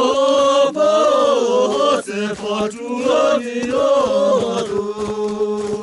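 Male voice chanting a bending melody over a steady held drone note, ending on one long sustained note.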